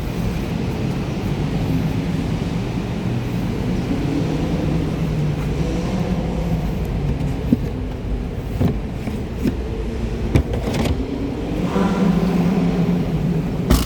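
Nissan Qashqai 1.2 petrol engine running with a steady rumble, its pitch rising and falling a little, with a few sharp clicks in the second half.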